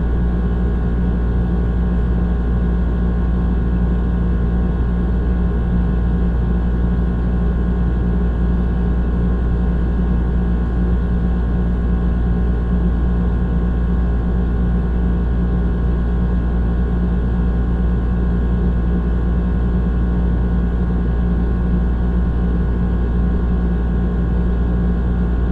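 Old air conditioner running: a steady, unchanging low hum with a deep rumble and a held droning tone.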